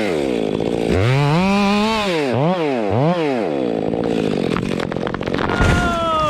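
Gas chainsaw engine being revved: it climbs to high speed and holds, is blipped twice quickly, runs rougher for a while, then winds down in pitch near the end.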